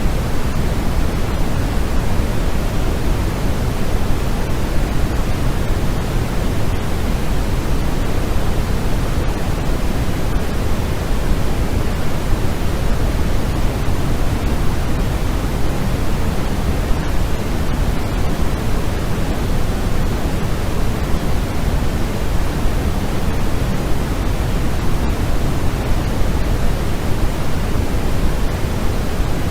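Steady generated white noise: an even, unchanging rushing hiss, fuller in the low range than the high, with no rhythm or events.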